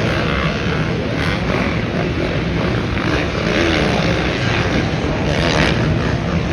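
Dirt bike engines running and revving in a race, heard through a loud, steady noisy wash.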